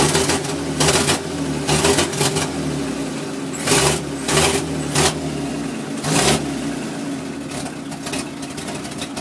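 Old cab-over truck's cold engine idling on its own with no throttle, a steady low running note, interrupted a few times in the middle by short loud bursts of noise.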